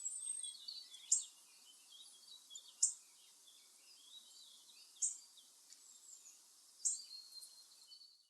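Birds chirping: one short, high call repeated four times about two seconds apart over a background of fainter twittering chirps from other birds.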